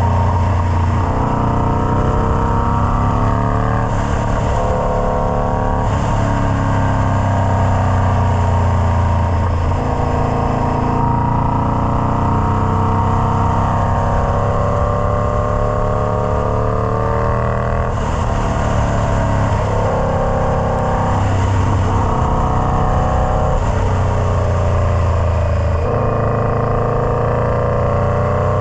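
Indian Scout Bobber's V-twin engine through a Freedom Performance Combat 2-into-1 exhaust, running loud, its pitch climbing and then dropping back again every few seconds.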